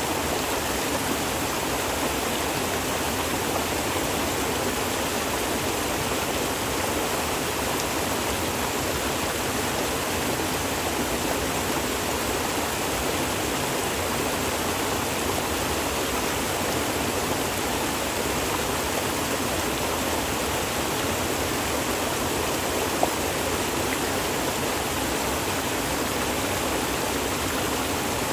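Hill stream rushing steadily over rocks, an even, unbroken water noise, with one brief click about four-fifths of the way through.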